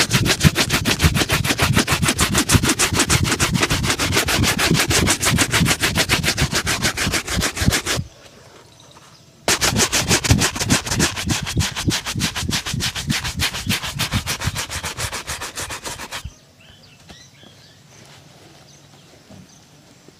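Brush scrubbing a shoe in quick, even back-and-forth strokes, as in shoe shining. Two long runs of brushing, with a short pause about eight seconds in; the brushing stops about sixteen seconds in.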